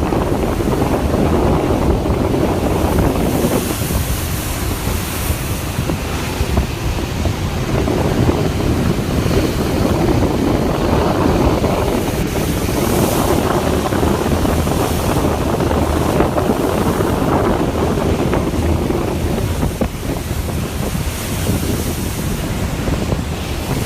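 Storm wind and heavy ocean waves at sea, loud and steady with surging swells, and wind rumbling on the microphone.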